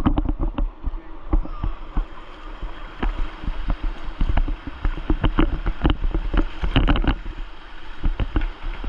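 Kayak on the water: a dense, irregular run of splashes and knocks from paddle and water close to the microphone, over a steady low rumble.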